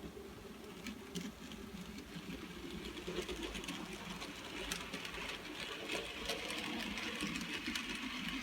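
N gauge model train, a Graham Farish WD Austerity 2-8-0 locomotive hauling Mk1 coaches, running on track: a faint, steady rattle of wheels on the rails with many small clicks. The locomotive's coreless motor is so quiet that the wheels on the track are what is heard.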